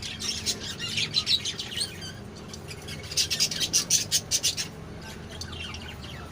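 Ringneck parakeet chirping in two bouts of rapid, high-pitched calls, the second about three seconds in and louder.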